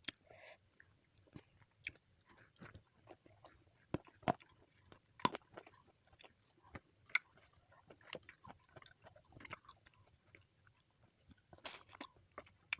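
Close-miked eating sounds: chewing, with many irregular soft clicks and crunches and a few louder snaps.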